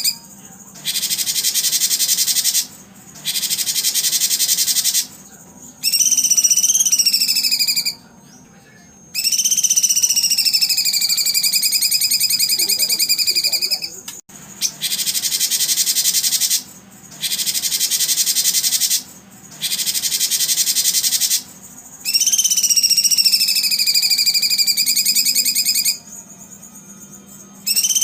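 Recorded songbird calls: rapid buzzing trills of about two seconds each alternating with long whistled notes that dip and rise in pitch, repeating with short pauses between them.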